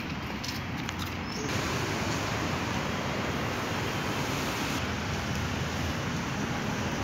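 Steady rush of road traffic, getting louder about a second and a half in.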